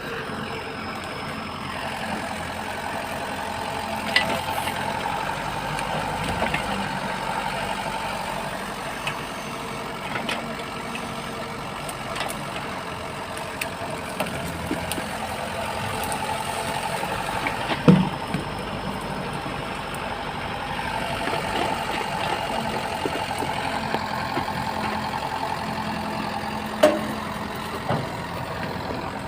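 Engine running steadily, most likely a tractor's, with a few sharp knocks or clanks, the loudest about halfway through.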